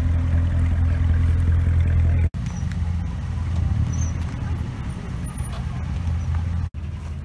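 Chevrolet Corvette C7's V8 idling with a steady, even low exhaust note. After an abrupt cut a little over two seconds in, it is heard idling on from farther away, as a less even, rougher rumble.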